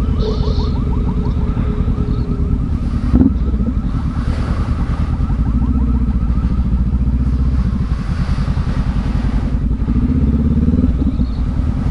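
Honda CB500X's parallel-twin motorcycle engine running steadily at low revs while rolling slowly, with a single knock about three seconds in.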